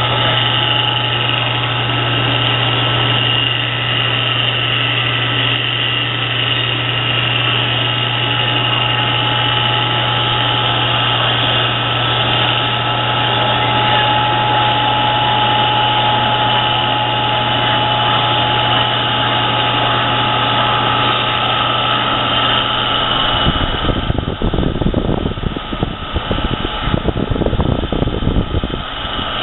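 Stainless-steel washdown-duty 1.5 HP electric motor running steadily, with an even hum and a few fixed whining tones. About 23 seconds in, an uneven rumbling noise joins it for around five seconds.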